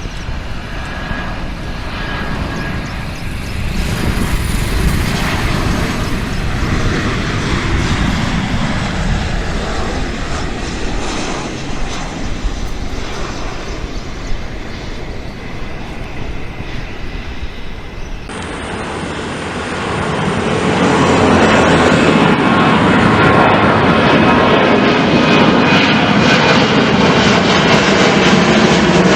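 Boeing 737-800 jet engines rumbling as the airliner lands and rolls out. About two-thirds of the way through the sound cuts abruptly to the engines spooling up for takeoff, growing louder and then running steadily at takeoff power with a whine over the rumble.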